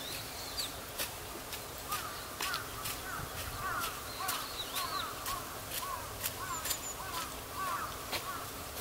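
Wild birds calling: a steady run of short, bent calls, about two a second, among sharp clicks.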